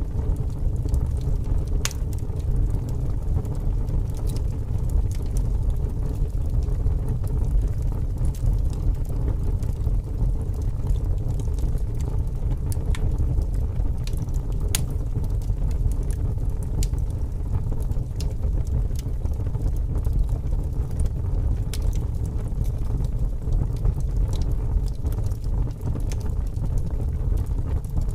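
Wood fire crackling, with scattered sharp pops, over a steady low rumble of strong wind.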